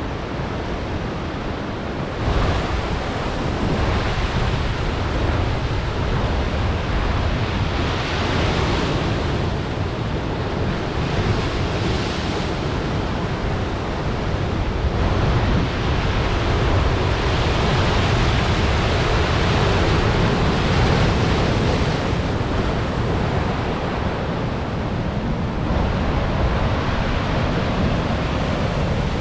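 Ocean waves crashing on rocks: continuous surf that swells and eases, with a surge about two seconds in and louder, longer swells through the middle.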